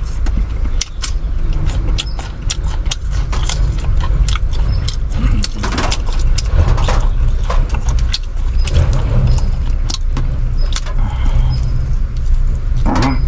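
Irregular crackling clicks and crunches from dry instant noodles being eaten and their packet handled, over a steady low rumble in the car cabin.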